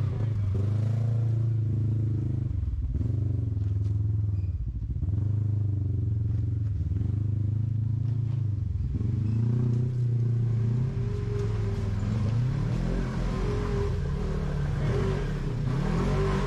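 Off-road vehicle's engine revving up and easing off again and again as the throttle is bumped to climb over rocks.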